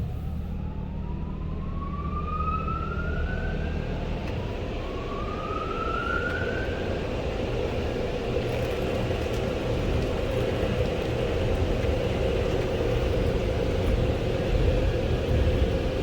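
Car-wash dryer blowers starting up: two rising whines a few seconds apart as the motors spin up, settling into a steady whine and rush of air over a low rumble that grows slightly louder.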